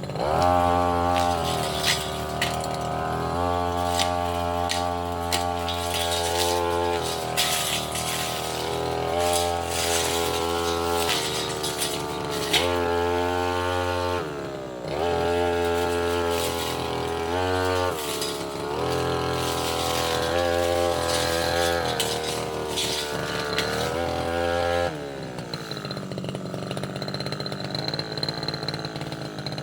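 Tasco 33 Pro brush cutter engine revving up and running at high speed, its revs dipping and rising again several times while the blade clatters against saplings and small roots. About 25 seconds in it drops back to idle.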